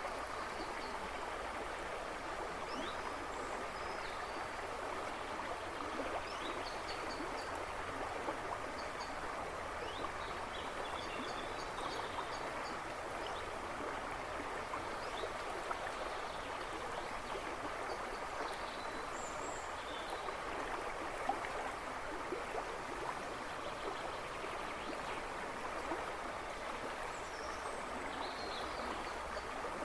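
A river rushing and splashing over stones, steady throughout. Small birds chirp faintly in the background now and then.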